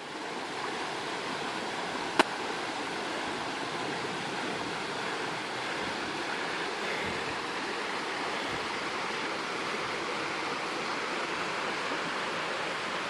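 Steady rush of flowing water, with a single sharp click about two seconds in.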